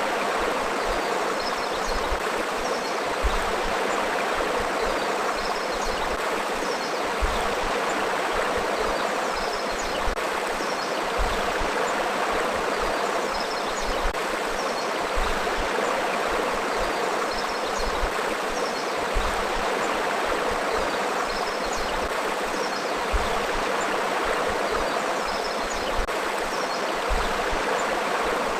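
River flowing: a steady, unbroken rush of moving water.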